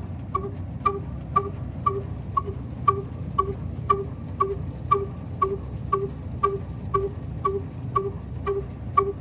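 Old black diesel engine running at a slow, steady pace: a ringing metallic clink about twice a second over a low, even running noise.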